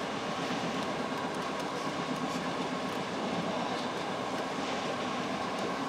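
Hankyu 6300 series electric train running at speed, heard from inside the leading car: a steady rolling rumble of wheels on rail with a faint even hum over it.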